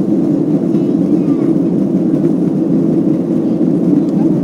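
Boeing 737 jet engines and rushing air making a steady low roar during the climb after takeoff.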